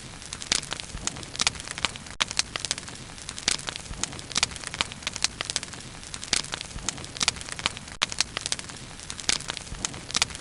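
Bonfire burning with a steady hiss and frequent irregular sharp crackles and pops of burning wood.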